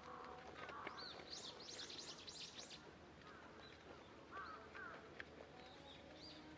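Wild birds calling faintly. A quick run of high, arching chirps comes about a second in, and a few lower calls follow later.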